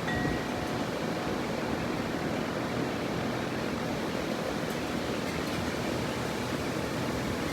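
Steady broad roar of a Boeing 787-9 airliner's jet engines flying overhead.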